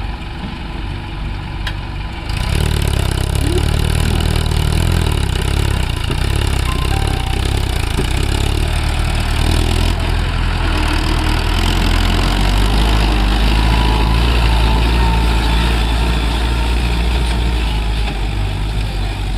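Mahindra Arjun 555 tractor's diesel engine running, its note jumping louder and heavier about two seconds in and holding there, easing a little near the end.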